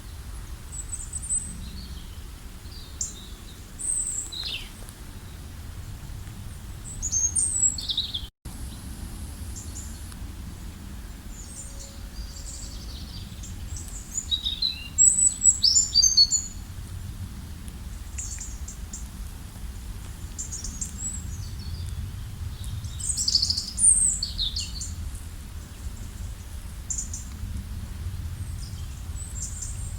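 Several songbirds chirping and trilling in short high calls, busiest about seven, fifteen and twenty-three seconds in, over a low steady rumble. The sound cuts out for a split second about eight seconds in.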